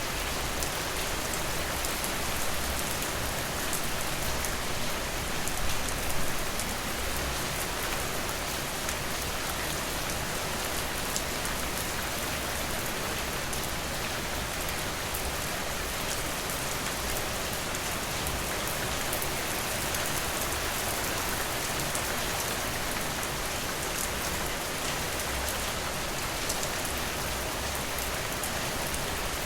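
Steady rain, a dense even hiss with fine scattered drop taps, a little louder for a moment about six seconds in.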